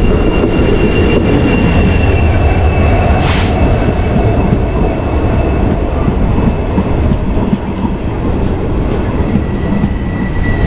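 A passing express train rumbling by on the adjacent track, its wheels giving a steady high squeal throughout, with a brief sharp noise about three seconds in.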